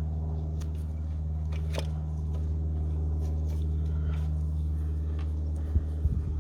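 Light clicks and small metallic taps of hands and tools working on the engine bay during an injector refit, scattered through, with a few louder knocks near the end, over a steady low hum.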